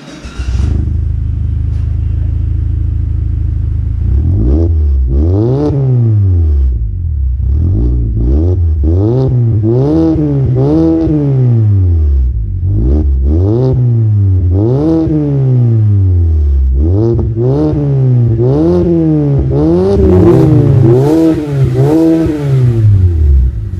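2016 Mazda 3's four-cylinder engine through an aftermarket catback exhaust, idling steadily for about four seconds, then revved over and over in quick blips that each rise and fall. The last few revs have a sharper, crackly edge.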